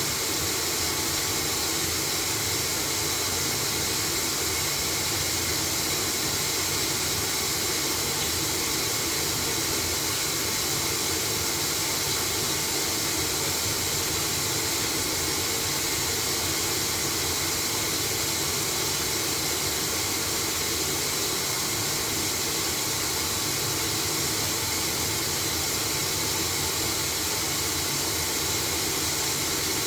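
LG washing machine running steadily mid-cycle: an even, unbroken whir with a strong high hiss and no tumbling rhythm or knocks.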